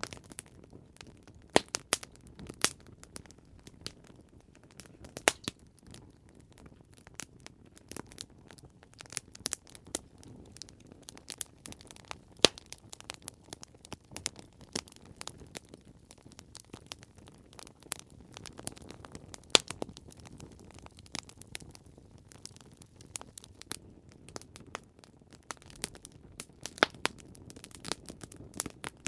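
Campfire crackling: irregular sharp pops and snaps of burning wood over a soft, steady rustle of flames, with a few louder pops.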